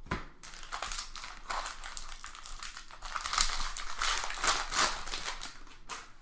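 Trading-card pack wrappers crinkling, with cards rustling, as packs of 2017 Bowman Draft baseball cards are opened and handled, in a run of uneven crackles.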